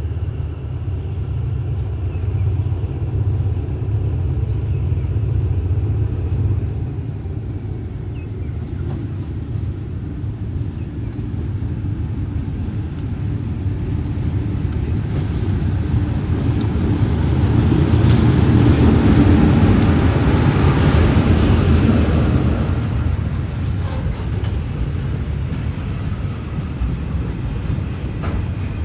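Low steady rumble of a passing train. It grows louder and hissier for several seconds past the middle, then settles back to the low rumble.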